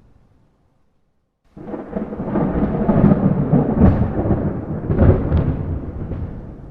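A long roll of thunder starts suddenly about a second and a half in, after a brief dead silence. It is a deep rumble with sharper cracks near the middle, and it fades toward the end.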